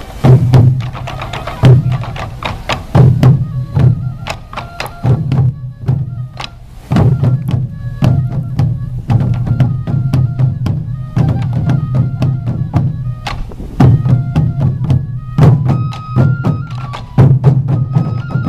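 Sansa odori festival music: many taiko drums beaten together in a driving rhythm, with a high bamboo flute melody running over them.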